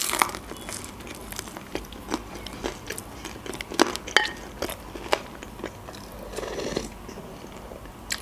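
Close-miked chewing of pizza, with many sharp, scattered mouth clicks. A spoon moving in a glass bowl of lentil soup adds a light clink.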